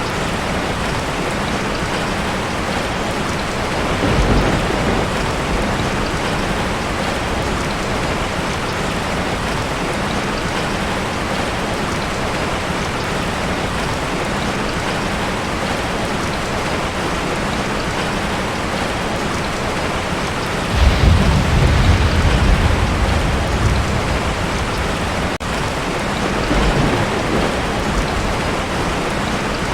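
Heavy rain pounding steadily on a tin roof, with rolls of thunder: a short one about four seconds in, a longer, louder one about two-thirds of the way through, and a fainter one near the end.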